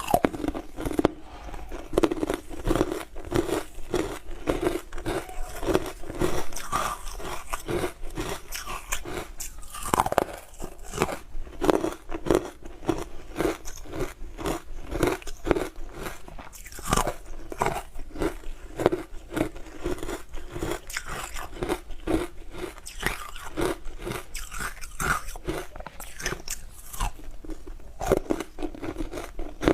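Close-miked biting and chewing of hard frozen ice: a dense, irregular run of sharp crunches and cracks as the ice breaks between the teeth.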